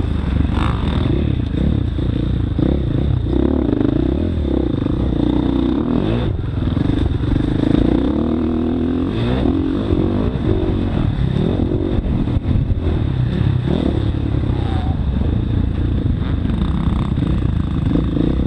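Motocross bike engine being ridden hard, its pitch repeatedly rising and falling as the throttle opens and closes, over a steady low rumble with occasional clatter.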